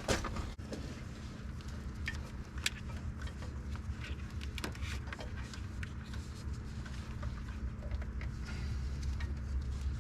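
Someone rummaging through supplies, scattered light clicks and rattles over a steady low hum.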